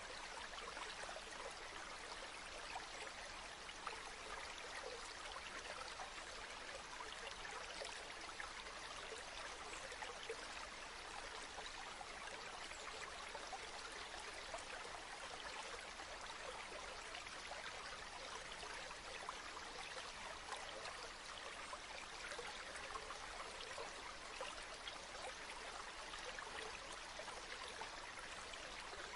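Gently flowing river water: a steady trickling wash that never lets up.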